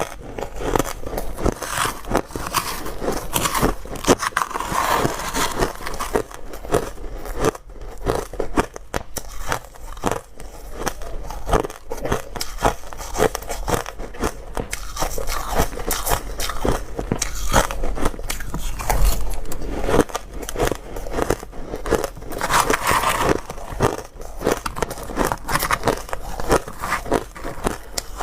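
Close-miked biting and chewing of hard, dry ice: many sharp crunches and cracks in quick succession.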